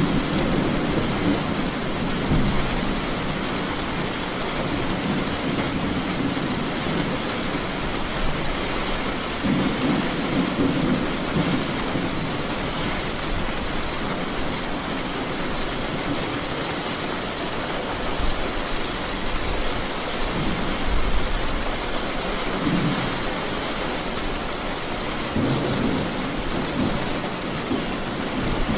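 Steady heavy rain falling, with low rolls of distant thunder rumbling up and fading several times.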